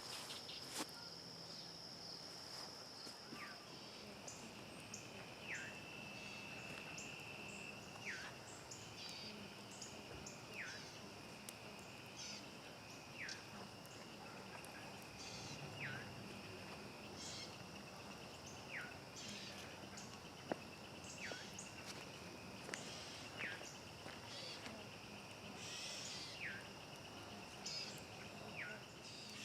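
Night-time crickets trilling steadily at two pitches, a high one throughout and a lower one joining a few seconds in, with a short falling chirp from another night creature every couple of seconds. Sparse sharp crackles from a campfire pop through now and then.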